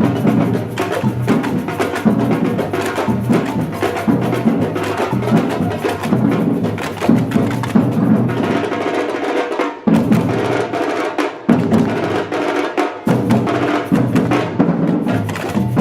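Batucada drum ensemble playing a dense, driving samba rhythm with deep bass drums and sharp, clacking higher percussion. Twice in the middle, the deep drums drop out briefly while the higher percussion keeps going, then the full groove comes back in.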